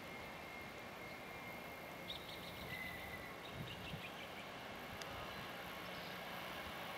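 Faint, steady rumble of a distant Airbus A320's jet engines, with a few faint high chirps about two to three seconds in.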